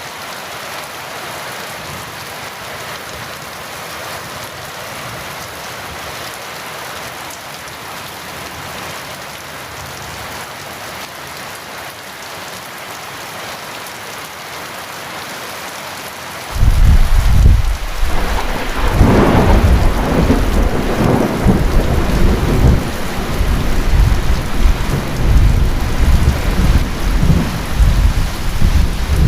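Heavy rain falling steadily. About halfway through, a loud thunderclap breaks in suddenly and rolls on as deep, uneven rumbling over the rain.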